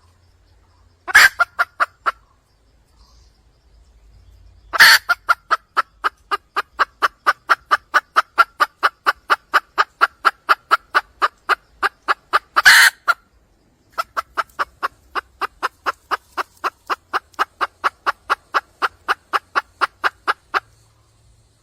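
Wild junglefowl hen calling for a male: three bouts of rapid, even clucks at about four a second, each opening with a louder, harsher note. The first bout is short, and the next two run for several seconds each.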